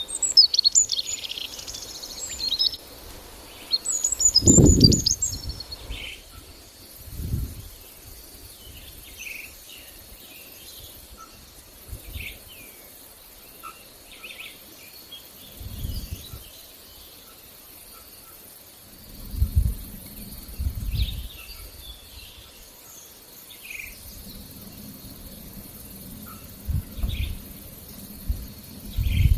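Small songbirds chirping and twittering in quick high notes, busiest in the first few seconds and then scattered. Short low rumbles come and go every few seconds, the loudest about four seconds in, over a faint steady hiss of forest ambience.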